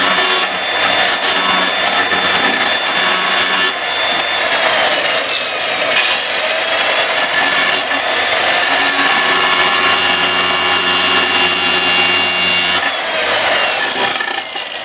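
Electric power grinder running and grinding down protruding screw ends, its motor pitch sagging under load a few seconds in and again near the end.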